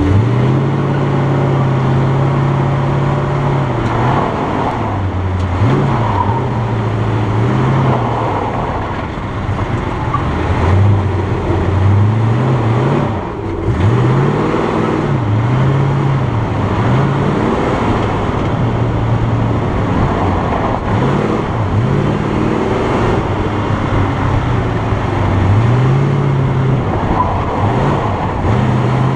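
1972 Ford LTD's V8 engine pulling hard and easing off over and over, its pitch rising and falling every second or few as the car is driven through an autocross course of cones.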